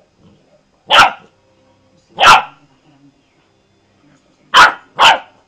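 Small dog barking: four short, sharp barks, the last two in quick succession near the end.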